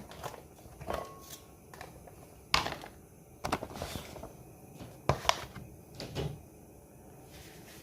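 Kitchen handling sounds: a series of irregular knocks and clatters, like cupboard doors, drawers or utensils being moved, the loudest about two and a half seconds in and around five seconds in. A short, faint steady tone sounds about a second in.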